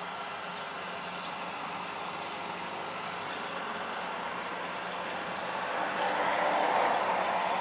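Refuse truck running, with a quick run of short high squeaks about halfway through and a louder rushing swell near the end.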